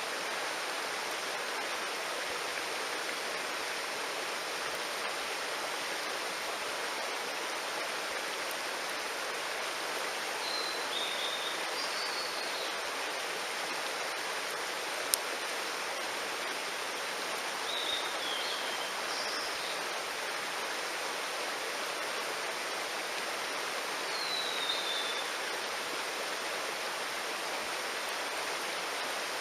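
Steady rushing of a mountain stream. A few short, high-pitched calls come through it at intervals, and there is a single sharp click about halfway through.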